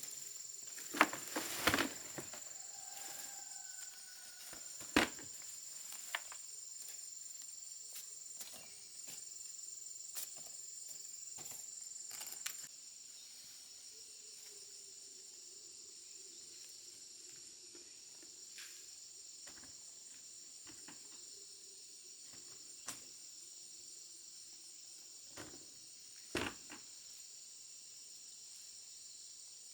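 Steady high-pitched chirring of crickets and other insects, with scattered sharp knocks and clicks: a cluster in the first two seconds, one about five seconds in and another near the end.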